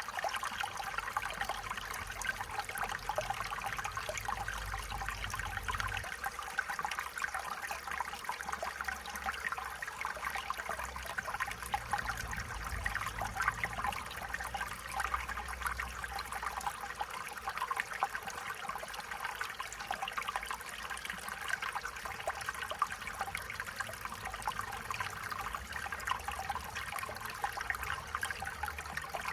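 Stream water flowing and trickling over stones, a steady splashing burble, with a faint low rumble that comes and goes underneath.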